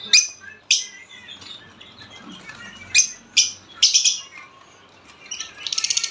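Caged budgies and lovebirds calling: a string of short, shrill chirps, with a fast rattling chatter near the end.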